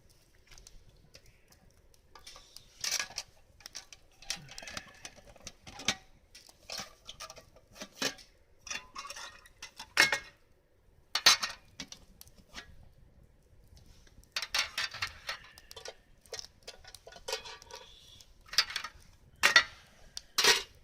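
Hard objects being handled: irregular clinks and rattles, with a few sharp knocks, the loudest near the middle and near the end.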